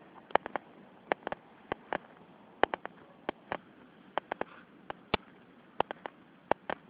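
Drops of water falling irregularly onto a hard surface close to the microphone: a scatter of sharp ticks, a few a second with no steady rhythm, over a faint hiss.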